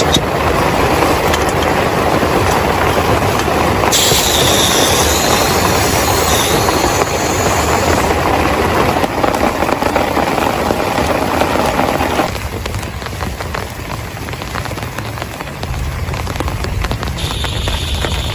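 Heavy rain falling, a dense steady hiss with a low rumble underneath; about twelve seconds in it suddenly drops in level and thins out.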